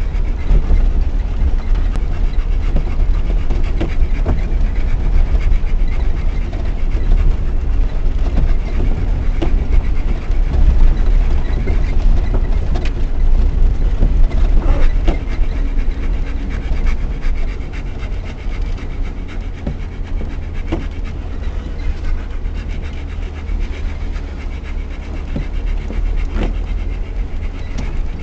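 Rottweiler panting inside the cabin of a Lada Niva 4x4 driving off-road, over the steady low rumble of its 1.7-litre engine and tyres on rough ground, with scattered knocks and rattles from the body. The rumble eases a little after about seventeen seconds.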